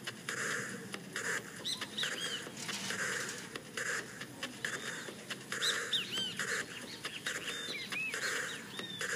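Birds chirping: short high calls that rise and fall, repeated every second or so, with harsher noisy bursts in between.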